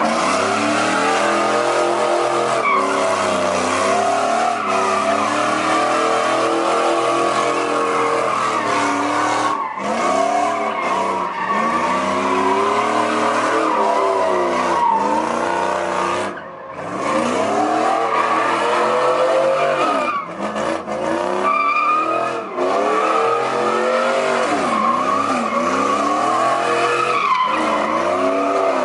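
A car spinning its tires at a street car meet: a steady, loud tire squeal over an engine revving up and falling back again and again. The engine eases off briefly about ten seconds in and again around seventeen seconds in.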